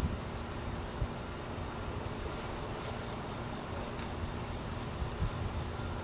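Small birds giving brief, very high, thin calls about once a second, each dropping quickly in pitch, over a steady low outdoor rumble with a few soft low thumps.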